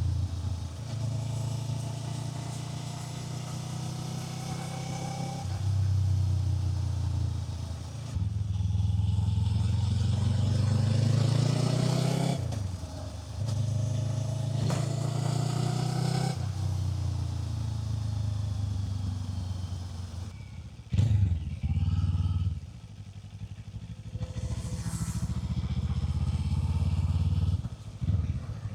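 Kawasaki Z500 parallel-twin engine under way, its note rising through several pulls in the gears and dropping at each shift or throttle closing. The revs fall away around the last third, with a short sharp blip a little after that.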